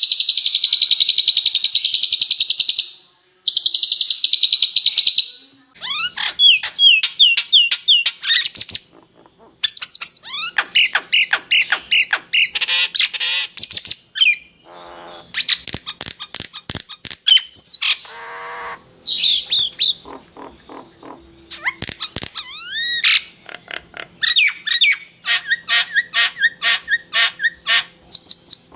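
Songbird song used as a training recording: two long, fast, high buzzing trills in the first five seconds, then a busy run of varied chirps, sweeping whistles and rapid repeated notes.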